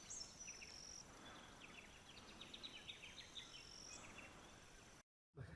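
Faint outdoor bush ambience of small birds chirping in quick repeated notes, with thin high insect or bird tones held over them. It cuts out abruptly about five seconds in.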